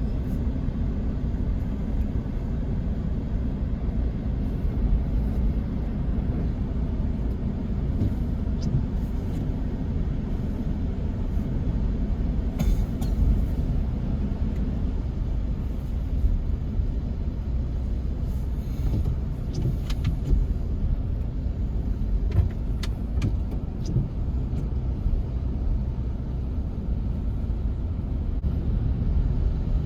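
Car driving, a steady low rumble of engine and road noise, with a few faint clicks.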